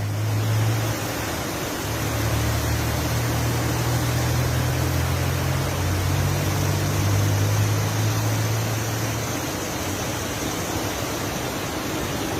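Steady rushing noise of floodwater, with a low engine-like hum underneath that stops about nine seconds in.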